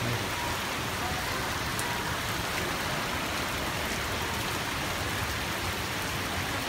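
Torrential rain pouring onto wet asphalt pavement, a steady, even hiss of many drops splashing.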